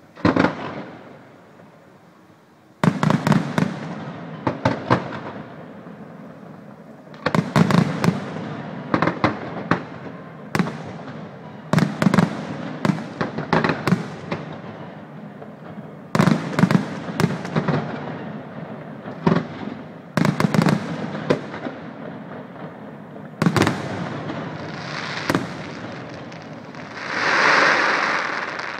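Aerial firework shells bursting in quick clusters, sharp booms every second or so with a few seconds' gap between volleys, each followed by crackling. Near the end a louder swell of rushing noise rises and falls.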